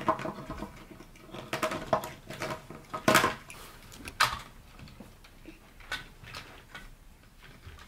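Lego plastic parts clicking and knocking as a hand works a Lego crane and sets a container down on a train car: a scattering of light clicks, the loudest about three seconds in.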